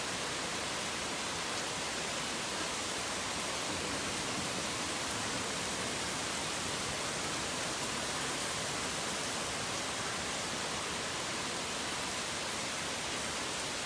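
Rain falling steadily: a dense, even hiss with no separate drops, thunder or birdsong standing out.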